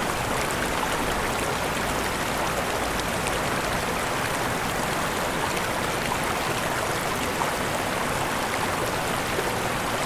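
Waterfall: a steady, even rush of falling water, with fine splashes ticking through it.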